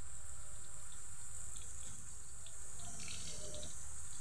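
Smoked fish frying in a little oil in a wok, sizzling steadily with small crackling pops that grow busier about three seconds in.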